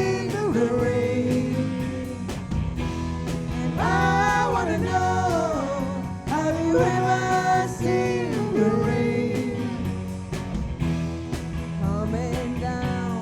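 A rock band playing a song: a lead singer's held, sung lines over guitar, bass and a steady drum beat.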